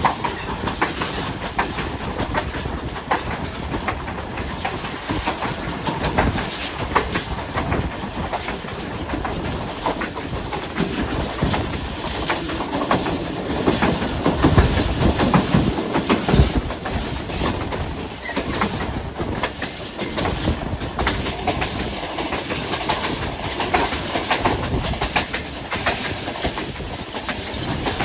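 Passenger train running along the track, wheels clicking over the rail joints over a continuous rumble, a little louder about halfway through.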